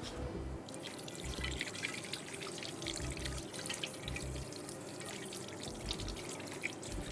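Flour-dusted chicken breast fillets shallow-frying in hot oil in a frying pan, sizzling with a steady crackle of small pops.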